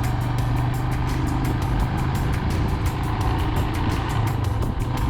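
Motorcycle engine running steadily on the road, with background music and its quick, even beat over it.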